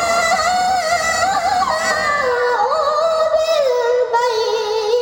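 Melodic Qur'an recitation (tilawah): a single high voice holds one long, ornamented note that wavers and steps down in pitch.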